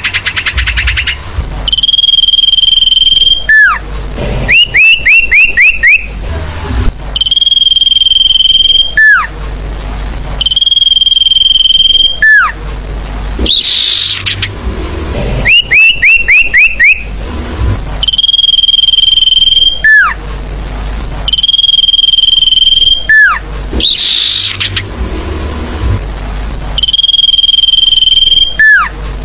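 Looped recording of a grey-headed canary-flycatcher (sirfu) singing, played as a bird lure: a loud, high held whistle that ends in a quick downward sweep, alternating with a run of five rapid rising notes, the cycle repeating every few seconds. A few short scratchy chatters come between the phrases.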